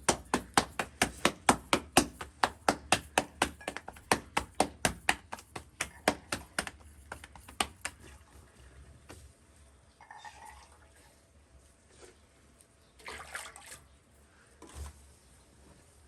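A fast, even run of knocks, about three to four a second, lasting about eight seconds, followed by a few scattered rustling sounds.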